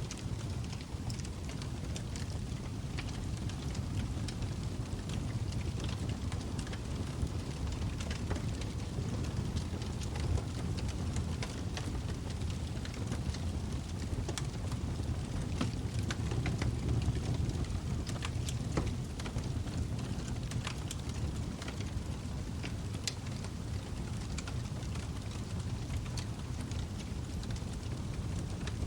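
Log fire burning in a fireplace: a steady low rumble of flame with frequent irregular sharp crackles and pops from the burning wood.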